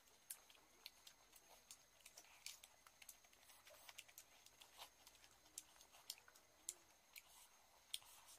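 Faint close-up eating sounds: chewing with irregular wet mouth clicks and smacks as rice and chicken curry are eaten by hand.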